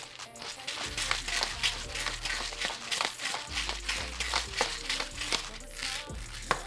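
A pepper grinder grinding seasoning into a pot of sauce: a long irregular run of crackling clicks, with a sharper click near the end.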